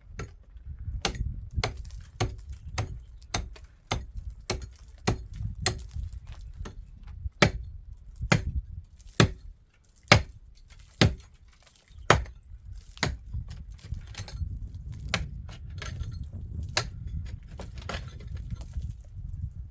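A long run of sharp knocks, irregular, about one or two a second, over a low rumble.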